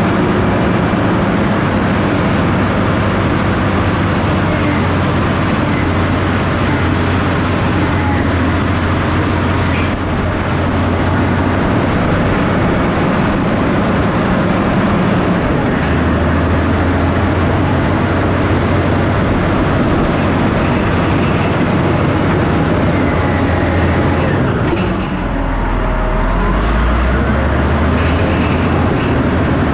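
Heavy earthmoving machine's diesel engine running steadily under load while pushing topsoil. Its note drops about halfway through, then dips and climbs again near the end.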